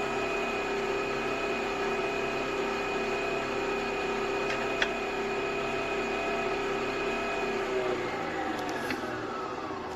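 Nespresso Vertuo Next capsule coffee machine brewing: a steady whir with several held tones from the spinning capsule and pump, with one click about five seconds in. Near the end the pitch falls as the spin slows down.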